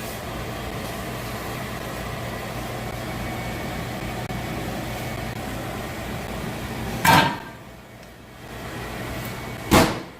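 Steady mechanical hum. A loud clunk about seven seconds in cuts it off, and a second loud clunk comes near the end.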